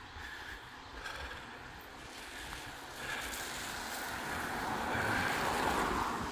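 Hiss of a vehicle's tyres on a wet road, growing louder from about halfway in as it approaches and passes.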